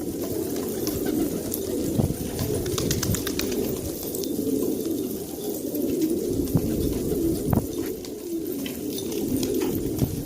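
Many pigeons cooing at once in a steady, overlapping murmur, with scattered sharp clicks.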